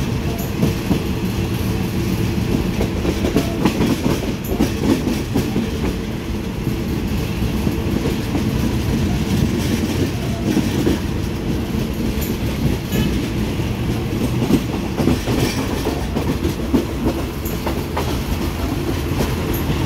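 Express passenger train running at speed, heard from aboard the carriage: a steady rumble with scattered sharp clicks of the wheels over the rail joints.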